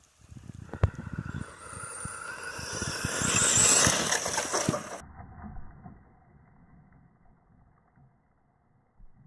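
Traxxas Sledge Hammer VXL RC truck accelerating. The whine of its electric motor rises in pitch over a few seconds, with tyre and ground noise and a sharp knock about a second in. The sound then fades away.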